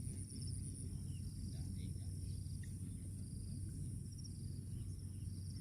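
Insects trilling and chirping: one high continuous pulsing trill and shorter repeated chirp phrases a little lower, over a steady low rumble of wind or background noise.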